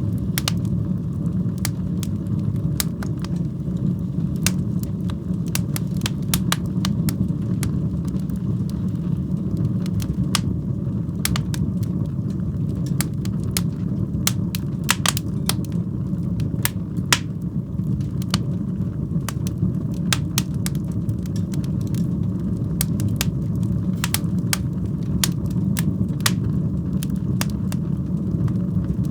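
Wood fire burning in a fireplace: a steady low roar of flames with frequent sharp, irregular crackles and pops.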